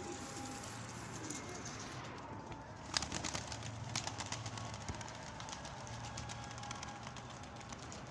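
Domestic pigeons cooing softly. A sharp clatter comes about three seconds in, followed by a run of quick ticks.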